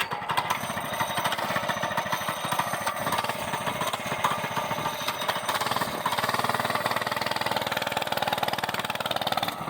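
An engine running steadily with a rapid, even pulsing clatter.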